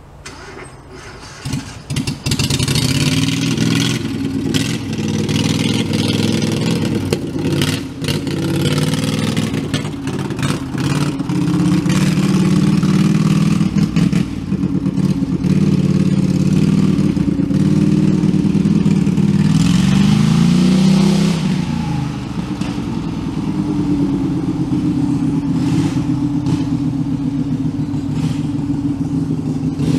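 Small engine of a homemade tractor running hard under throttle as it is driven for wheelies. The pitch drops sharply about twenty seconds in, then the engine settles to a lower, steadier run.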